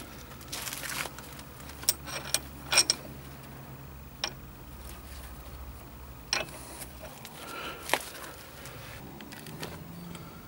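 Steel parts of a wheel bearing tool set, such as the compression plate and threaded rod, clinking and tapping as they are handled and fitted. There are several separate sharp clinks spread out with pauses between them.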